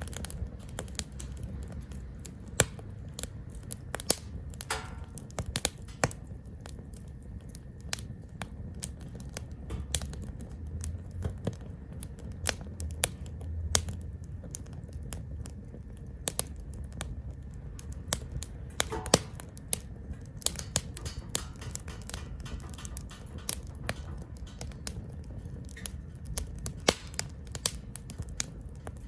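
Burning wood crackling in a small B6-size grill fire (Captain Stag Kamado Smart Grill B6), with irregular sharp pops several times a second over a low steady rumble.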